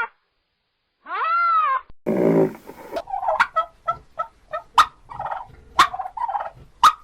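A single drawn-out, meow-like call rises and falls about a second in. Then domestic fowl give a rapid, uneven series of short gobbling, clucking calls, broken by sharp clicks.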